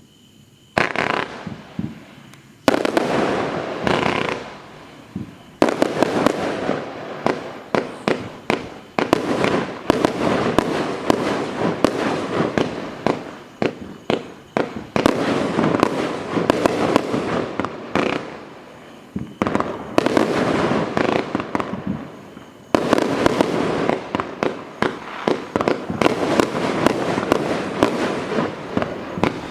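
A large fireworks cake firing: dense, rapid volleys of shots and bursting shells in surges, with a few short lulls before the firing picks up again.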